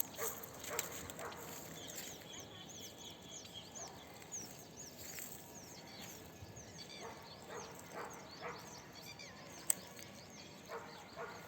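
Small birds calling: many short, high chirps repeated throughout, with a quick trill about two seconds in. These are the birds the title calls ababil birds.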